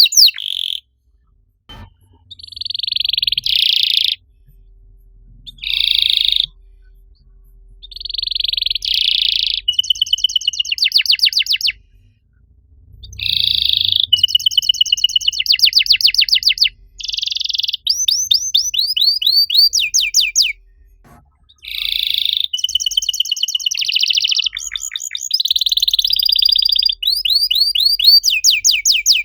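Domestic canary singing: phrases of fast repeated notes and rolling trills, each lasting one to a few seconds, separated by short pauses.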